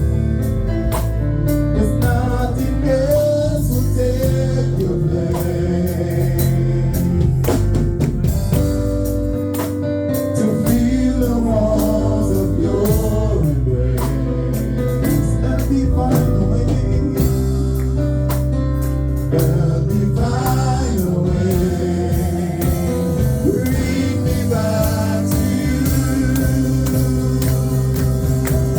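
Live gospel worship music: singing, with a choir, over organ or keyboard, bass and drums.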